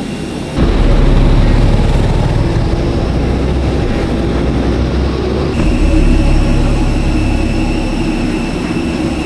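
Jet aircraft engines running: a steady low rumble with a thin high whine. The sound jumps up sharply about half a second in and changes again about five and a half seconds in, as between cut shots.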